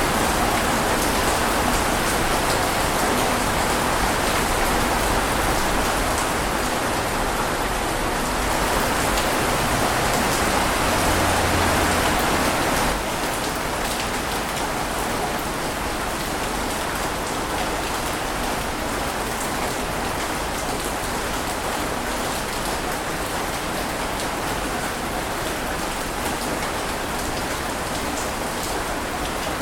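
Steady rain falling, an even hiss of drops; a little under halfway through it abruptly steps down slightly in loudness and carries on evenly.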